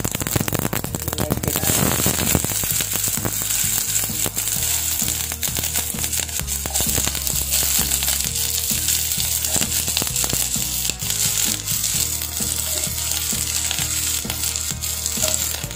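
Mustard seeds popping and crackling in hot sesame oil in a steel pot, then chopped onions frying with a steady sizzle.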